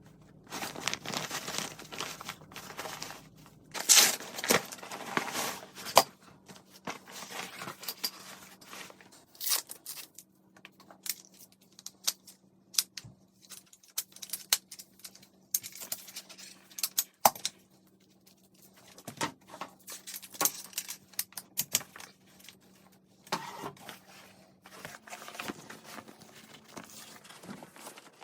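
Folding campfire chair being handled and sat in: fabric rustling and crinkling in bursts, with scattered sharp clicks and a few louder knocks from the frame. A faint steady hum runs underneath.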